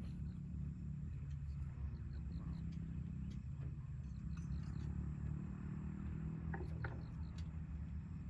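A steady low rumble with faint, brief high chirps and a few soft clicks over it.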